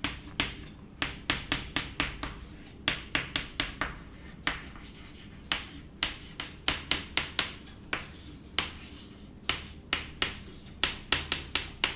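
Handwriting: a pen or chalk making a quick run of sharp taps and short strokes against the writing surface, in irregular clusters of two to four a second.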